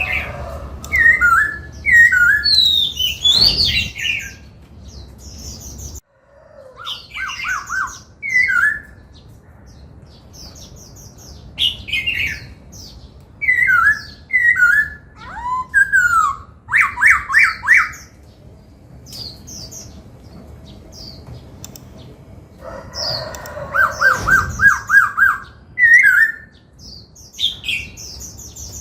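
Black-throated laughingthrush singing: loud whistled phrases of gliding rising and falling notes and quick trills, separated by short pauses.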